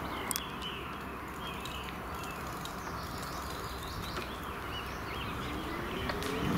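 Small birds chirping in the trees over the steady rushing noise of a bicycle ride along a tarmac path.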